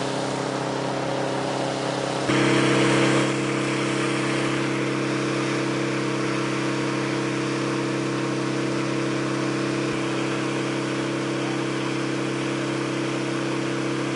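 An engine running steadily at a constant speed, its hum getting louder about two seconds in.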